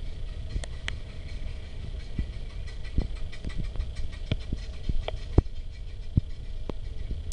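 Engines of vintage cars running at low speed as they roll past, a low rumble with scattered irregular clicks and pops.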